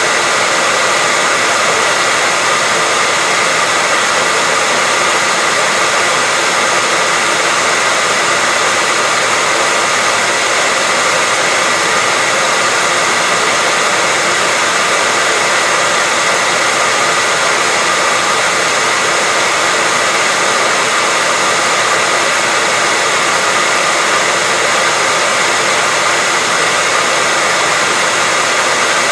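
Hair dryer running steadily: a constant, even rush of air with a faint steady high tone in it.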